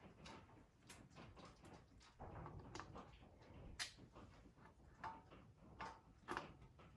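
Faint, scattered clicks and light taps from engine parts and hand tools being handled, the sharpest a little before four seconds in.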